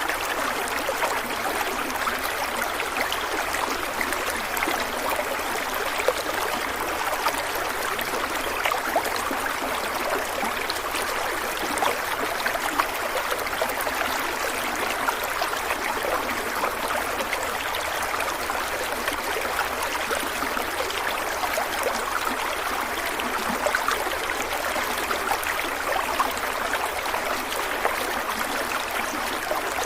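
Stream water running steadily over rocks, a continuous splashing rush flecked with small gurgles and trickles.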